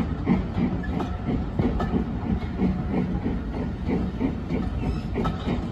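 Railway passenger coaches rolling past close by: a low rumble from the wheels and bogies, with a run of sharp wheel clacks over the rail joints.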